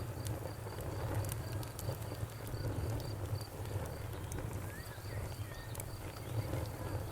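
Campfire burning, with scattered sharp crackles and pops over a steady low rumble of the flames. A high, evenly repeating chirp, two or three pulses a second, runs in the background.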